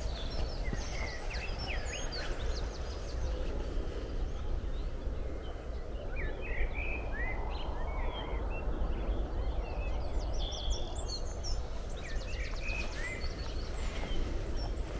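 Several wild birds singing and calling, with short chirps and quick trills scattered throughout, over a steady low rumble and rustling noise.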